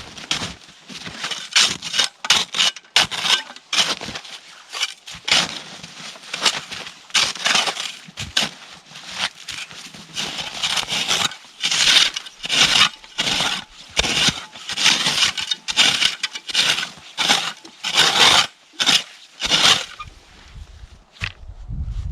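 Repeated irregular crunching, scraping strokes, about one or two a second, louder in the second half.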